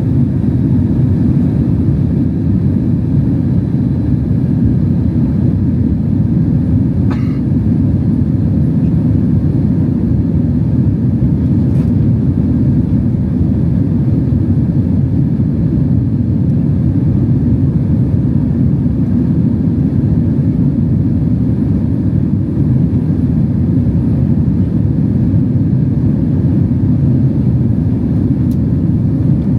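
Steady, loud cabin rumble of a Boeing 767-300 airliner in flight: engine and airflow noise, deep and even throughout.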